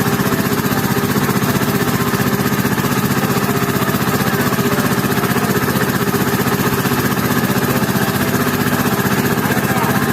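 A small boat's engine running steadily at a constant speed, with an even, unbroken drone.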